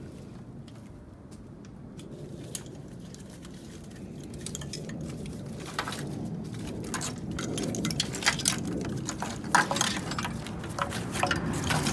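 Metal hand tools and car parts clinking and knocking as they are handled, with a steady low hum underneath; the clinks come thicker and louder in the second half.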